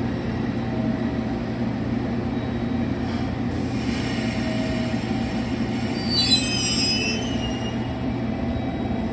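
JR Kyushu 415 series electric train departing, a steady low rumble with a brief high metallic squeal about six seconds in.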